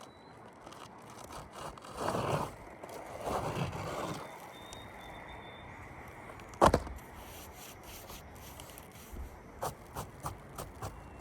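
Scraping on roof shingles during a shingle repair, two stretches of rough scraping, then one sharp knock about two-thirds of the way in, the loudest sound, followed by a few light taps near the end.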